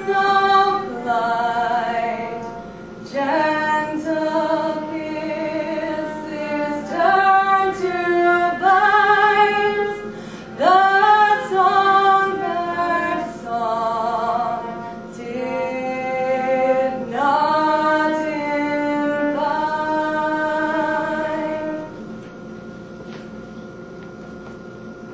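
A woman singing a slow melody with held, wavering notes and no instruments heard; the singing ends about 22 seconds in, leaving a faint steady hum.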